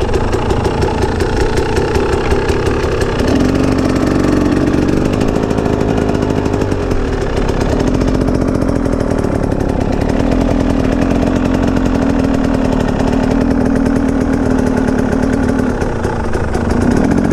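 KTM EXC off-road motorcycle engine running at low revs, its rapid firing pulses steady, with small shifts in pitch about three seconds in and near the end.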